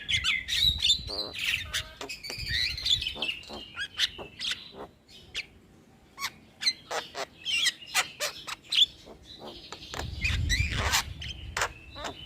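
Javan myna (jalak kebo) singing: a varied run of whistled gliding notes mixed with sharp clicking calls, easing into a brief lull midway and then picking up again with a harsher burst.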